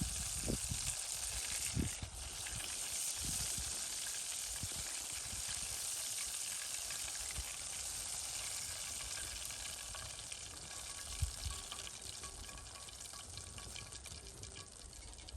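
Karaage (Japanese fried chicken) deep-frying in hot oil: a steady sizzle that eases off slightly toward the end, with a few soft low thumps.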